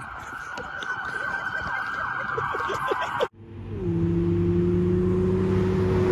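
Car tyres screeching in a drift, several overlapping squeals, cut off abruptly about three seconds in. Then a car engine held at steady high revs, climbing in pitch near the end.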